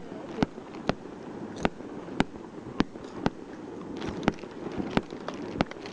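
Distant fireworks going off over water: a string of sharp pops and reports, roughly two a second, over a steady hiss.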